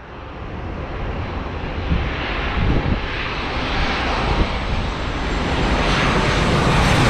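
Jet airliner engines: a broad rushing noise that grows steadily louder as the plane draws near.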